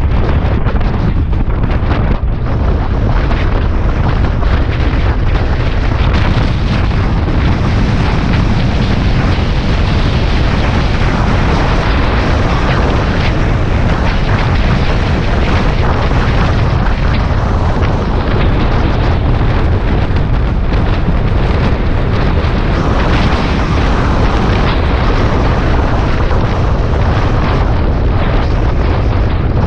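Steady, loud wind rush and buffeting on the microphone of a Suzuki Bandit 650S motorcycle at highway cruising speed, with the bike's engine and road noise running beneath.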